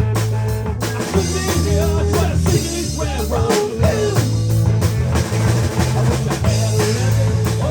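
A band playing a rock tune: a drum kit, a steady bass line, and a lead guitar line that bends up and down in pitch.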